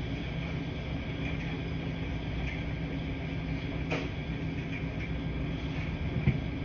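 Washing machines running in a laundry room: a steady low hum with a wash of noise, a light click about four seconds in and a short low knock near the end.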